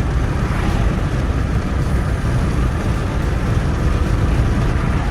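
Steady low rumble of road and wind noise from a moving car.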